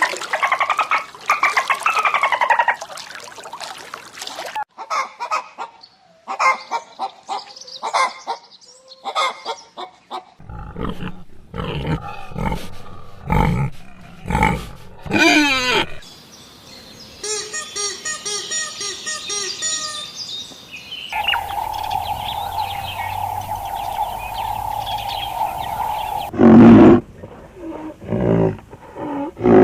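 A run of short animal-call clips cut one after another: pitched calls that rise and fall, quick chirps and clicks, a fast rhythmic chirping, and a long steady call. A loud, deep call near the end is the loudest sound.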